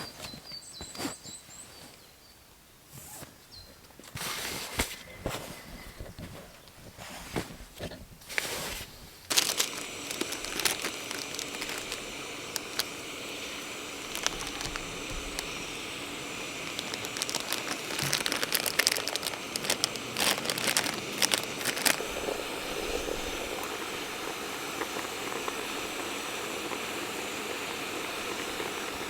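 Rustling and clicking of gear and packaging being handled, then from about nine seconds in a steady hiss like a portable gas camping stove burner lit and running, with clattering of cookware on top.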